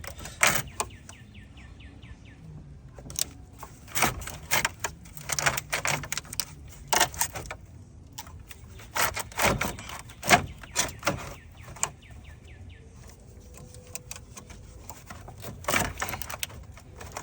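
Scattered clinks and knocks of metal tools and parts being handled while fitting the cooling fan assembly in a car's engine bay, with a brief run of fast faint ticks about a second in.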